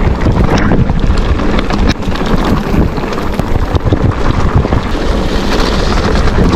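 Loud wind buffeting the microphone of a moving motorcycle, a dense rushing roar with irregular thumps throughout.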